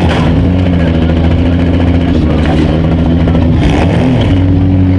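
Demolition derby small cars' engines running and revving, several engine notes at once, one settling on a higher steady note about four seconds in. A couple of sharp knocks come through as well.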